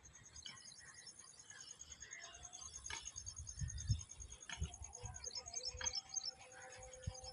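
Faint outdoor ambience of birds calling, with short chirps and, from about halfway through, steady held notes. Under it run a steady high-pitched pulsing trill and scattered low thumps.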